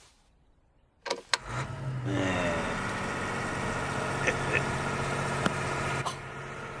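Car engine starting: two clicks, then a rising whine as it catches and settles into a steady run. About six seconds in, it drops to a quieter, lower running sound.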